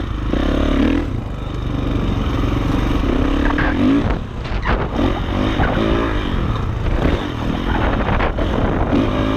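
Dirt bike engine revving up and down as it is ridden over rough trail, with a few sharp knocks and clatter from the bike along the way.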